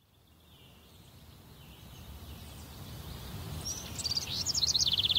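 Outdoor ambience fading in from silence: a low steady rumble, then about three and a half seconds in a small bird sings a fast run of repeated chirping notes that step down in pitch.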